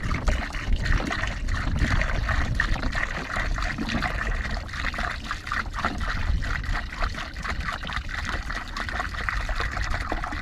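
Warm water pouring into a wash bucket, a steady splashing trickle as the bucket fills.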